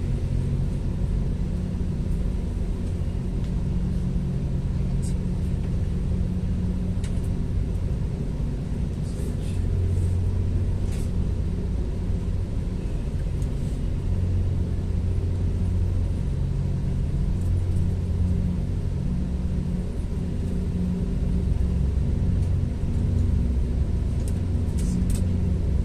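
GO Transit diesel commuter train heard from inside a passenger coach while under way: a steady low rumble and hum from the running train, swelling and easing a little, with a few brief high-pitched ticks from the wheels and track.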